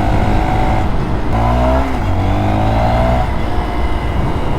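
Motorcycle engine accelerating under the rider, its pitch climbing, dropping at a gear change about a second in, then climbing again.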